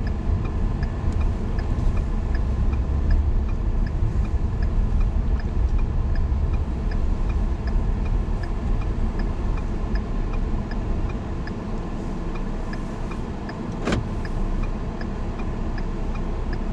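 Car cabin road and engine rumble with a turn signal ticking at a steady regular rate. The rumble eases off about two-thirds of the way through as the car slows, and there is a single sharp click a few seconds before the end.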